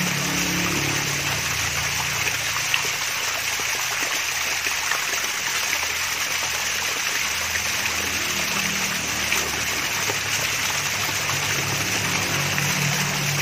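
Water from a small waterfall trickling and splashing in a steady flow, with faint droplet ticks here and there.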